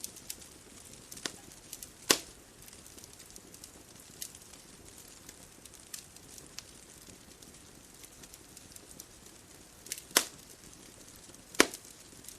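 Wood bonfire crackling: scattered small crackles and three sharp pops, one about two seconds in and two near the end, over a faint steady hiss.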